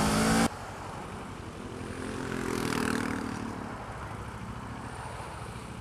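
Motorcycle engine revving hard, cut off abruptly about half a second in. Then a much quieter, steady engine and road sound follows, its engine note swelling and fading again around the middle.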